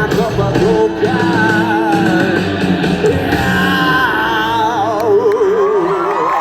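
Rock band playing live, loud: guitars and drums with wavering, bending melodic lines in the song's closing section.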